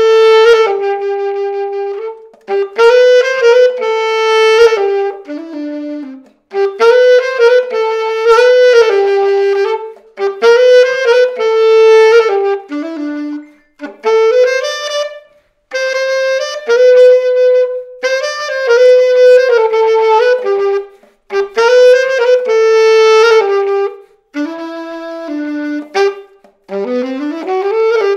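Selmer Mark VI alto saxophone played solo in short melodic phrases of a few seconds each, with brief pauses between them and some notes sliding up and down in pitch. The instrument has just been overhauled and is being play-tested.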